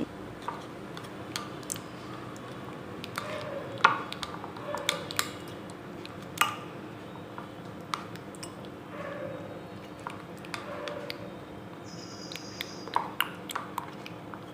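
Spoon clinking and tapping against a bowl at irregular intervals while stirring chocolate pieces melting in hot milk, over a faint steady hum.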